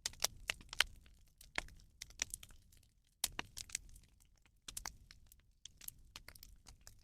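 Bonfire of burning rubbish crackling, with irregular sharp pops and snaps.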